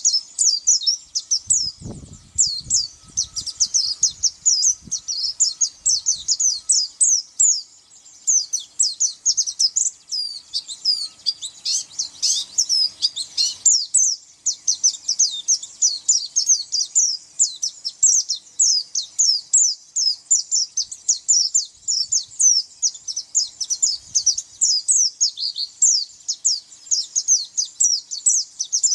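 Pleci (white-eye) singing a fast, unbroken stream of high chirps and twitters.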